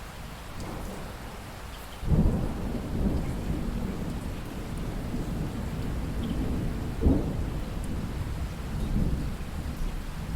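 Steady rain, with thunder rumbling in suddenly about two seconds in and rolling on, peaking again about seven seconds in.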